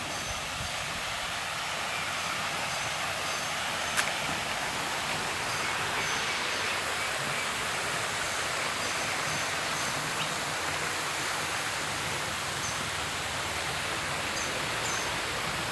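Steady rushing noise of running water, with a single click about four seconds in and a few faint high chirps.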